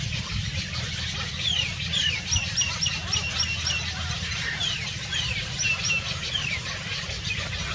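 Small birds calling: sharp falling whistles, then a quick run of about six repeated chirps, about four a second, and more falling notes later, over a steady low rumble.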